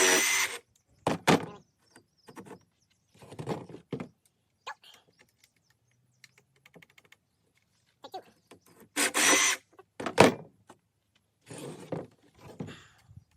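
DeWalt DCS330 18-volt cordless jigsaw cutting a wooden panel in short starts and stops: two louder runs of about a second, around the start and about nine seconds in, with weaker short bursts between. A sharp knock just after ten seconds.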